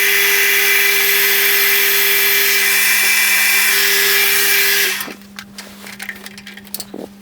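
Milling machine spindle running with a 2.5 mm drill boring a small hole into a brass wheel, a loud steady whir with a strong high hiss. It stops about five seconds in, followed by a few light clicks.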